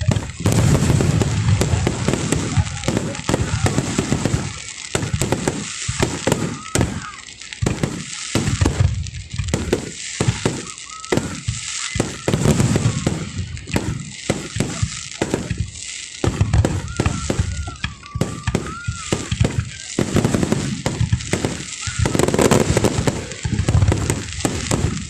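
Fireworks display: aerial shells bursting one after another in a dense, continuous barrage of bangs.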